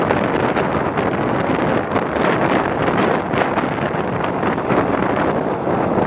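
Passenger train running along the line, heard from a window of its last coach: a steady rumble of wheels on the rails mixed with wind buffeting the microphone.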